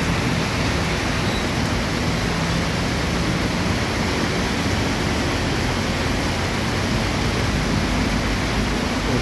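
Heavy rain pouring down steadily onto a street, a dense, even hiss, with traffic driving through it on the wet road.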